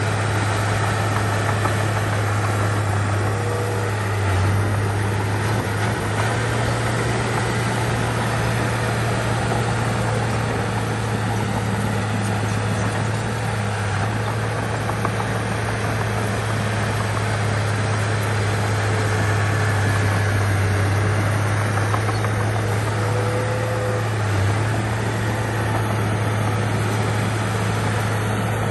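Bulldozer's diesel engine running steadily, a deep constant hum with mechanical noise over it.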